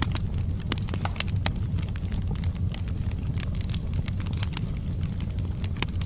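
Wood logs burning in a fireplace: a steady low rumble of flames with frequent sharp crackles and pops scattered irregularly throughout.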